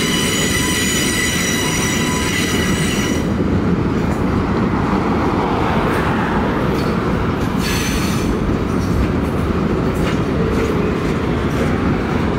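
Freight cars of a long freight train rolling past: a steady rumble of steel wheels on rail, with a high-pitched wheel squeal for about the first three seconds and briefly again about eight seconds in.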